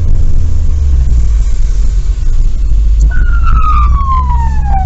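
Steady vehicle rumble of a car driving, and about three seconds in a siren starts and winds down in pitch.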